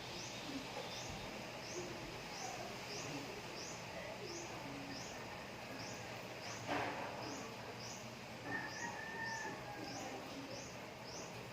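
A bird chirping over and over, one short high chirp about every half second to second, faint and very even, with a single brief knock about halfway through.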